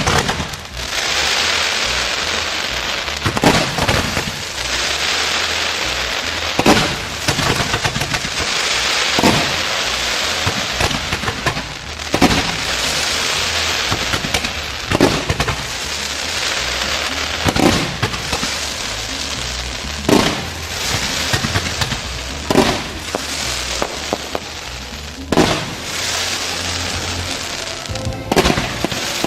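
Fireworks display: sharp bangs of bursting shells every two to three seconds over a continuous crackling hiss.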